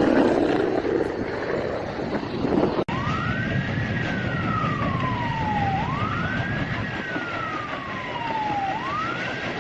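Emergency vehicle siren wailing, rising quickly and falling slowly about every three seconds, over a steady rushing background. Before it, about three seconds of loud rushing noise that stops at a sudden cut.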